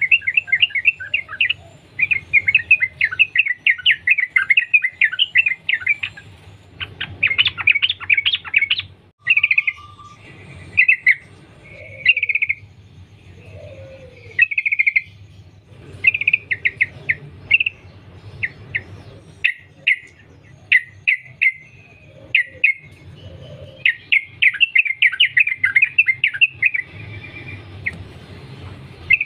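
Yellow-vented bulbul singing in long, rapid chattering runs, broken by short pauses into shorter phrases and single notes.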